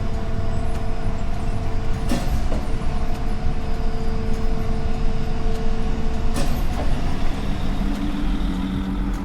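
Animated dump truck sound effect: a diesel-like engine rumbling steadily under a held whine while the dump box is raised, with a sharp clank about two seconds in and another as the whine stops about six seconds in. The engine note shifts to a lower, different hum near the end.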